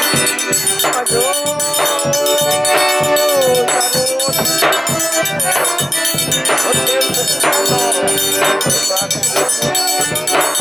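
Forró pé-de-serra played live without singing: an accordion holds and slides a melody over a steady beat of zabumba thumps, with a triangle ringing on the offbeats.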